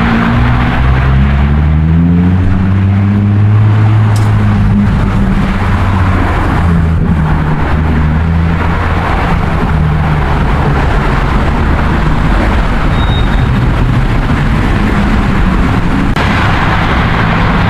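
A vehicle's engine or motor running steadily, rising in pitch about a second in as it speeds up, then holding.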